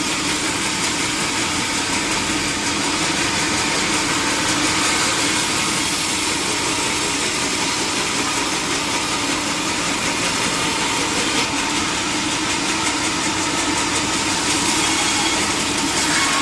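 Sawmill machinery running steadily with a constant mechanical drone and hiss that does not change.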